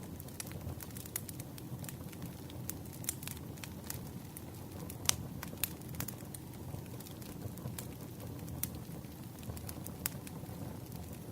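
Campfire crackling: a steady low rush of burning wood with irregular sharp pops and snaps, one louder pop about five seconds in.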